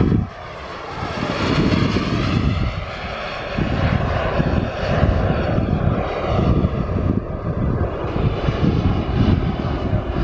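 Turbine engine of a large radio-controlled scale jet (an Aermacchi MB-339 model) in flight, a steady loud jet noise with a faint whine that wavers in pitch. The sound dips briefly just after the start and builds up again about a second in.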